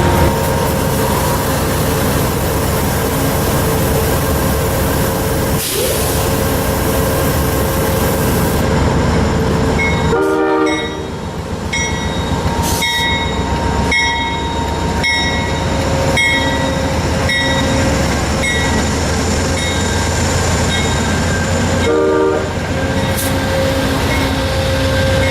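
Diesel locomotive train at a station with its engine rumbling, sounding two short horn blasts about ten seconds apart. A bell rings about once a second from the middle on.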